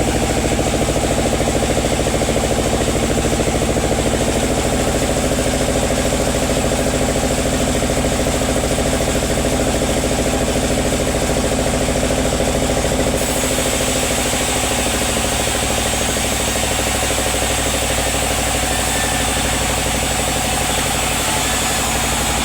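Sawmill machinery running steadily with an engine-like drone; about halfway through its tone shifts and a higher hiss grows louder.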